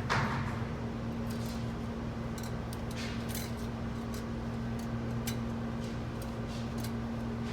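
Light scattered clicks of clutch plates, friction and steel discs, being stacked into an A90 Supra automatic transmission's clutch pack, over a steady low hum.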